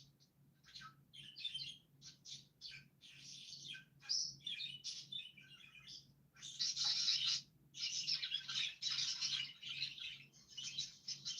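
Small birds chirping and chattering in quick, dense runs. The calls are sparse at first and become louder and almost continuous about halfway through.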